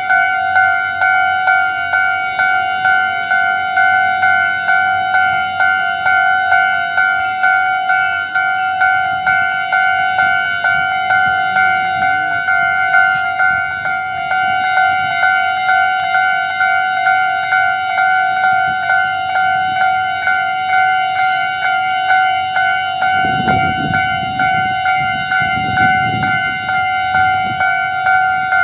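Railway level-crossing warning bell ringing steadily, an evenly repeating electronic ding on a fixed pitch. A low rumble joins it near the end.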